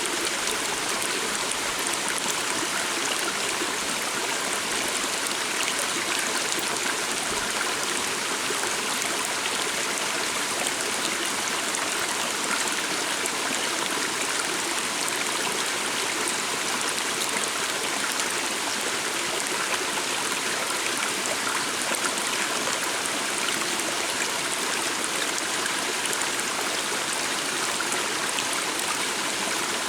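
A small stream flowing, a steady rush and trickle of water that does not let up.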